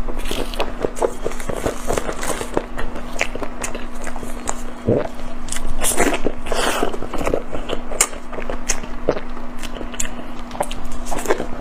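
Close-miked mukbang eating sounds: biting into and chewing food, with many quick wet clicks and crackles. A steady low hum runs underneath.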